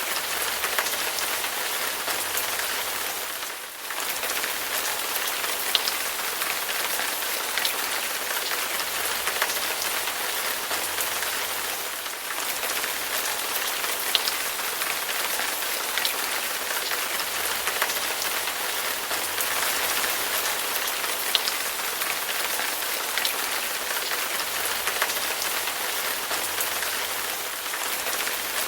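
Heavy rain falling steadily: a dense, even hiss with frequent sharp ticks of single drops hitting a surface. The level dips briefly about four seconds in and again near twelve seconds.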